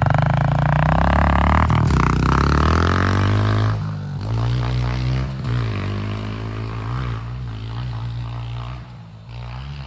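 Honda CRF125F big-wheel dirt bike's 125 cc single-cylinder four-stroke engine revving as the bike pulls away, its pitch climbing for about three seconds. Around four seconds in it gets quieter, and the revs then rise and fall as the throttle is worked.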